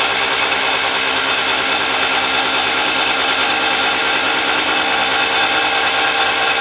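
Mazda Miata's freshly rebuilt four-cylinder engine being spun over by its starter motor with the spark plugs out: a steady, even whine with no compression beats, cranking to build oil pressure before the first start.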